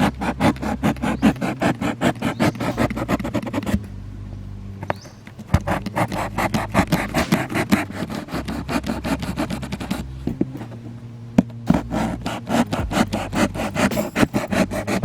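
Rapid back-and-forth sawing strokes, about five or six a second, in three runs with short pauses between them.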